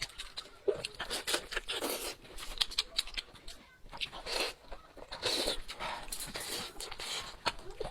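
Close-miked eating sounds from chewing goat's head meat: many quick wet mouth clicks and smacks, with a few longer sucking or slurping noises.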